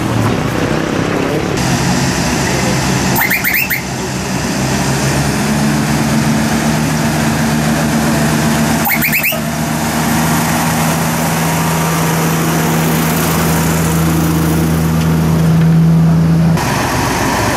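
A vehicle engine running steadily under a constant hiss. The hum is plainest from about five seconds in and stops suddenly near the end, and the sound changes abruptly at several cuts.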